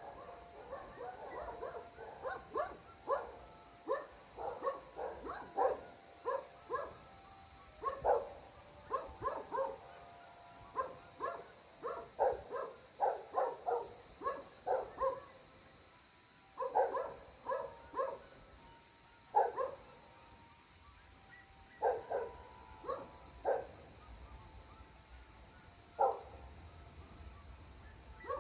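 A dog barking in bouts of quick, short barks with pauses between, over a steady high hiss.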